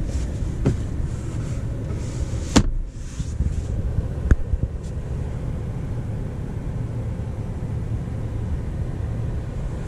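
Steady low rumble inside the cabin of a 2025 Chevrolet Tahoe High Country with the engine idling, broken by a sharp knock about two and a half seconds in and a smaller click a couple of seconds later.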